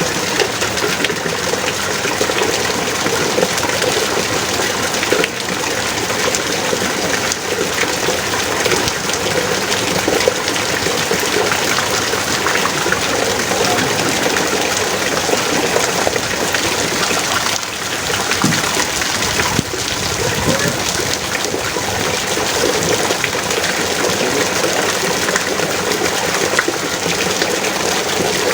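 Heavy rain falling steadily, a dense even downpour.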